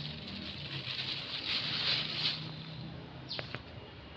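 Rustling and crinkling of old plastic and vegetation as the plastic is pulled out of the soil by hand, loudest about halfway through, with a short falling chirp about three seconds in.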